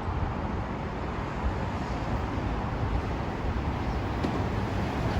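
Metro-North M7A electric train approaching, a steady rumble that slowly grows louder.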